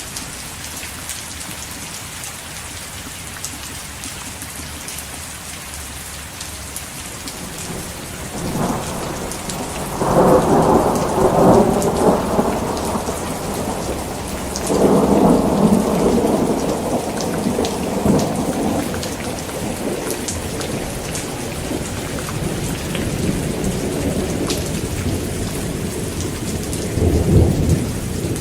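Heavy rain falling steadily, with thunder: a rumble builds about eight seconds in and peaks soon after, a second long roll follows a few seconds later, and another rumble comes near the end.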